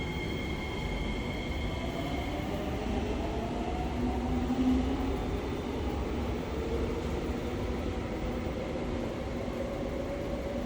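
Singapore MRT train running, heard from inside the carriage: a steady rumble with a motor whine that rises slowly in pitch as the train picks up speed. A high steady tone fades out about two seconds in.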